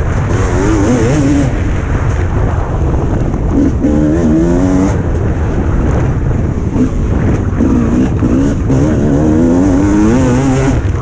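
Suzuki RM 300cc two-stroke motocross bike engine revving hard, its pitch climbing and dropping again and again as the throttle is opened and shut, over a heavy low rumble.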